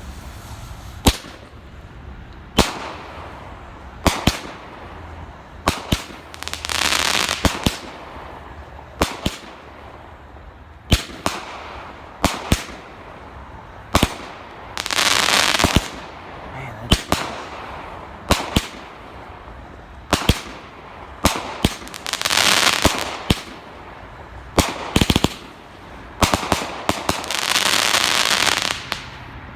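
Enigma Fireworks 'Saruman's Anger' 20-shot consumer firework cake firing: a series of sharp launch and break reports a second or two apart, several of them followed by about a second of dense crackling from crackle-effect stars.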